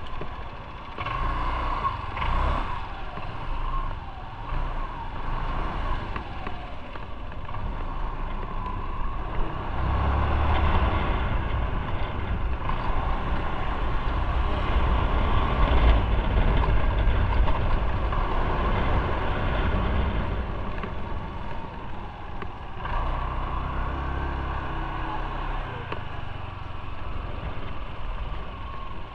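Motorcycle engine running as the bike rides along, with road and wind noise. It grows louder about a third of the way in and eases off again near the end.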